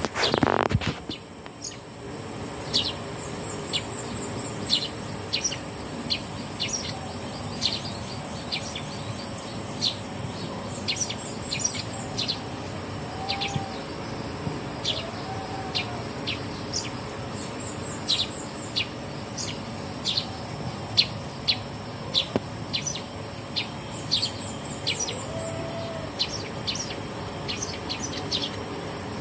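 Birds giving many short, sharp repeated chirps over a steady high-pitched insect drone from crickets or cicadas. A brief low thump about half a second in is the loudest moment.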